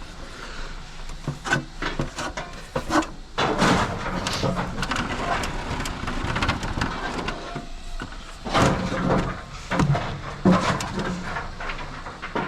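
Repeated metallic clanks, knocks and scrapes from work on a steam locomotive, in two busy spells with sharp single knocks between them.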